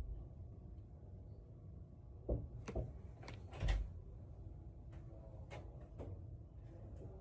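A few sharp knocks and clicks about two to four seconds in, then several lighter clicks, over a low steady rumble.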